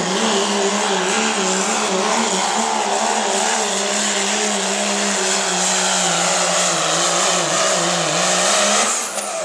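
Diesel truck engine held at high revs under heavy load during a truck pull, a steady, slightly wavering note over a loud rush of noise. It eases off near the end.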